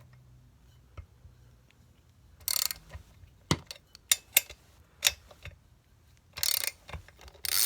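Socket ratchet wrench clicking in short bursts, with single sharp clicks between them, while the cylinder head bolts of a small two-stroke generator are loosened.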